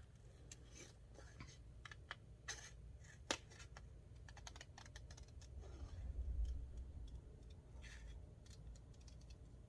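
Small scissors snipping paper, fussy-cutting around a printed image: faint, irregular snips and clicks, with a soft low rumble of paper handling about six seconds in.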